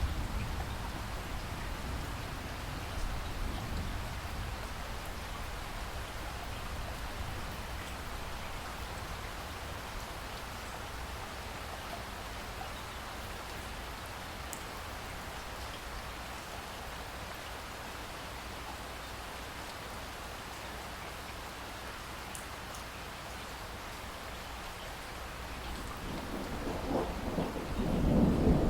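Steady rain falling, with a low rumble of thunder beneath it; near the end a louder roll of thunder swells up.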